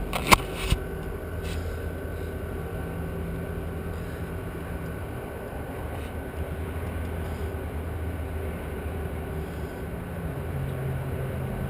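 An engine idling steadily, its hum stepping up slightly in pitch near the end. Two sharp clicks come in the first second.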